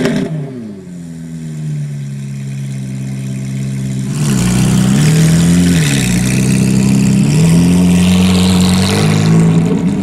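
Ferrari F430 Spyder's V8, run without catalytic converters, dropping from a rev back to a steady idle. About four seconds in it gets louder, and its pitch dips and rises several times until the end.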